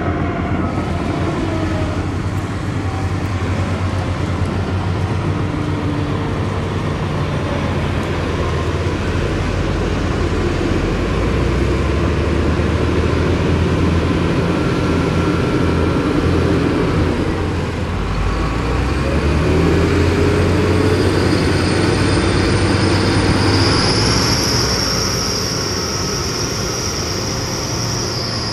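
Diesel engine of heavy earthmoving machinery running under load, its pitch shifting up and down, with a steady high-pitched whine coming in about two-thirds of the way through.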